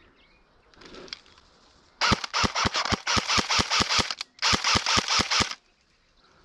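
Airsoft AK replica firing in two strings of rapid shots, about six a second: a string of about two seconds, a short pause, then a string of about one second.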